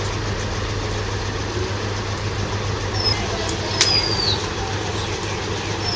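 A steady low background hum, with a small bird giving a few short, high chirps that fall in pitch, about halfway through and again at the end.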